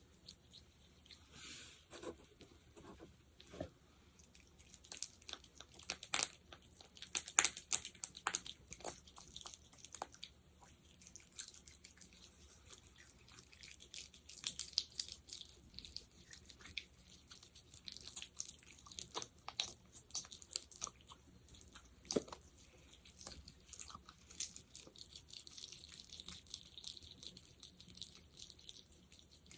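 Fingers working a sticky gel up close, giving irregular wet clicks, pops and crackles as it is squeezed and pulled apart. The sounds are thickest and loudest a few seconds in.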